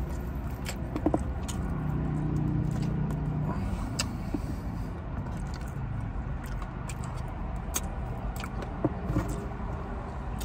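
Close-up eating sounds: chewing, lip-smacking and finger-licking, with sharp wet mouth clicks scattered throughout, over a steady low rumble from the car.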